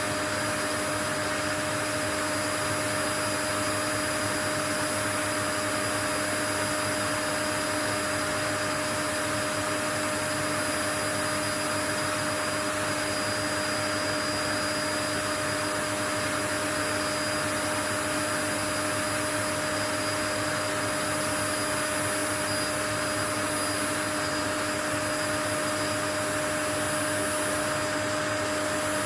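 Continuous white noise, a steady even hiss with a few constant hum tones running through it, unchanging throughout.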